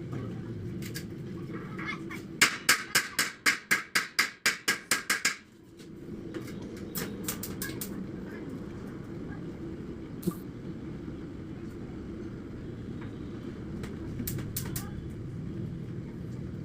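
A quick, even run of about a dozen sharp taps, about four a second, a couple of seconds in, like a hammer tapping on steel. A few single clicks follow later over a steady low hum.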